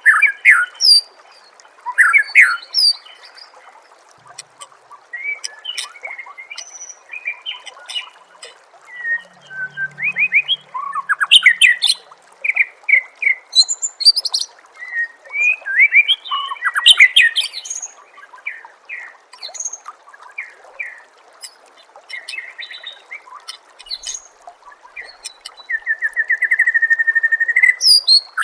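White-rumped shama singing a varied, loud song of short whistles, slurred glides and sharp notes, with a rapid rattling trill near the end. A steady faint hiss of flowing water runs underneath.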